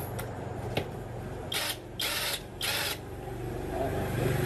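Three short hissing sprays, about half a second apart, over a steady low mechanical hum that grows louder near the end.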